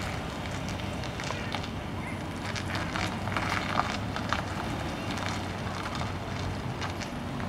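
Police Dodge Charger's engine running at low speed as the car creeps through a cone course, a steady low hum. Scattered light crackles and ticks sound over it.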